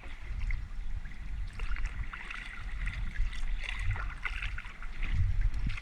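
Kayak on the water: water lapping and trickling around the hull, with small splashes and a steady low rumble underneath.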